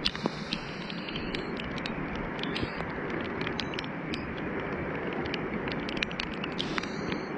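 Heavy rain falling steadily, with many sharp taps of drops striking close by.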